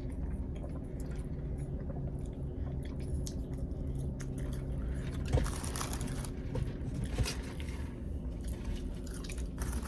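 Close-up chewing and biting into crispy fried chicken tenders, with irregular crunches that come thickest about halfway through. A steady low hum runs underneath.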